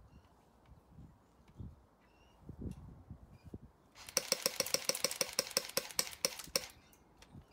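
Electric airsoft rifle (AEG) firing a rapid full-auto burst of BBs lasting about two and a half seconds, starting about four seconds in. Before it there are only faint low thumps and rustles.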